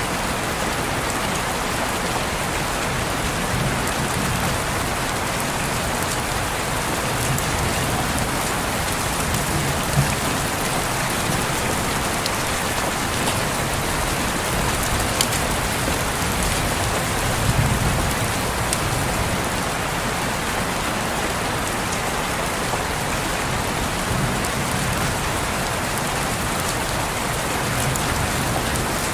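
Steady rain falling on a window and surroundings, a dense even hiss with scattered individual drop ticks.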